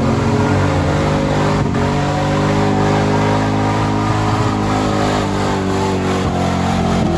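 Car engines running loudly and revving, the engine note sweeping up and down near the start and again near the end.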